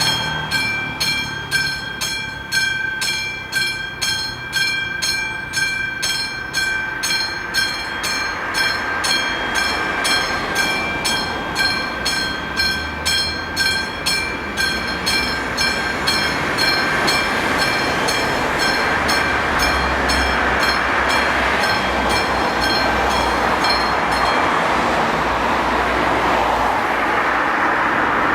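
Classic mechanical level-crossing bell ringing in even strikes about twice a second, while a passenger train rolls through the crossing with a rising rumble and rush of wheels on rails. The bell fades and stops near the end as the train noise carries on.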